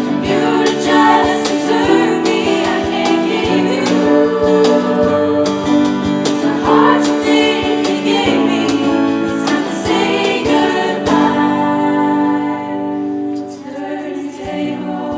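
Show choir music: voices holding sustained chords over instrumental accompaniment, dipping in level about twelve seconds in.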